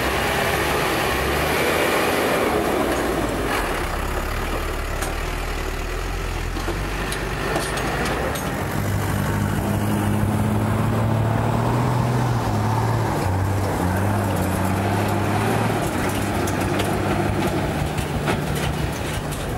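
Motorcycle engine running under way with steady road and wind rush; the low engine note rises and shifts in the middle of the stretch.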